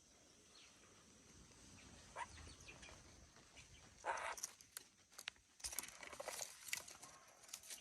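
Faint rustling with a cluster of light clicks and taps in the second half. The loudest sound is a brief rustle about four seconds in.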